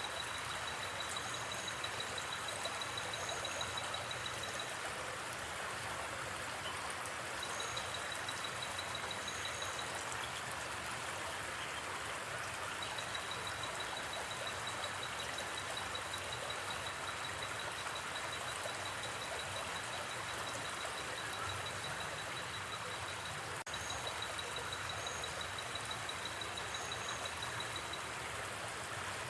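Steady rush of a gently flowing river. Over it, night insects keep up a high, rapid trill that stops and starts a few times, with scattered higher double chirps and a single sharp click about two-thirds of the way through.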